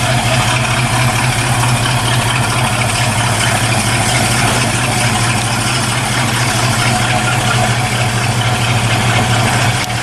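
1969 Ford Mustang Mach 1's V8 engine idling steadily, loud, with a strong low exhaust note.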